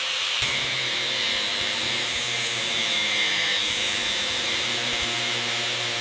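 A power tool running steadily with a continuous hiss, joined by a low hum about half a second in.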